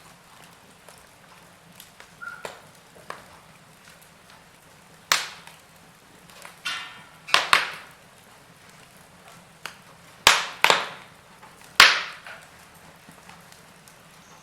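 Wood fire crackling in a fireplace: burning logs giving scattered sharp pops over a faint steady hiss, the loudest pops coming in the second half. A brief hiss about six and a half seconds in.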